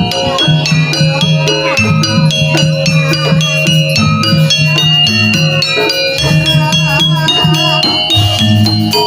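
Javanese jaranan gamelan music: quick runs of struck metal keys over low drum and gong notes, with a wavering melody line above.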